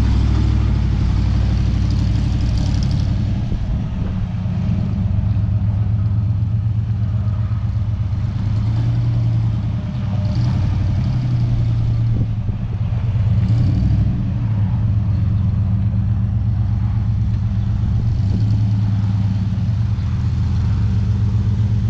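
Vehicle engine running and driving along, a low steady drone with road noise that dips slightly in level a few times.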